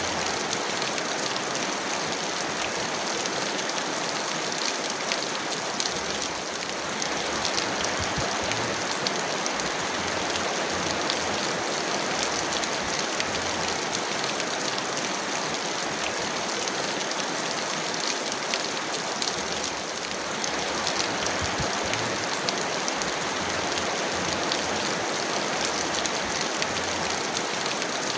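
Heavy rain falling steadily: a dense, even hiss of water with many fine drop ticks.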